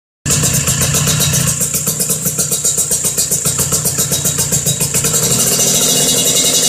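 Vespa scooter's two-stroke engine running through a racing expansion-chamber exhaust with an aluminium silencer, a rapid pulsing idle. About five seconds in the revs rise a little and the pulses run together.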